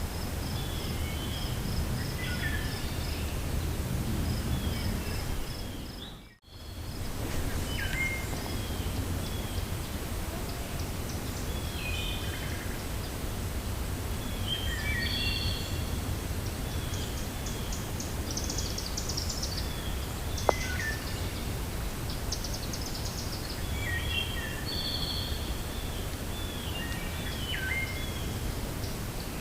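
Forest ambience: a steady low rumble of wind with many birds chirping in short repeated calls throughout. About six seconds in, the sound dips briefly almost to silence, and about twenty seconds in there is a single sharp click.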